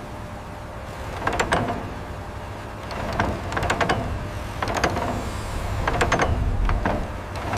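Groups of sharp metallic clanks and rattles, four bursts a second or so apart, each ringing on briefly, over a steady low rumble.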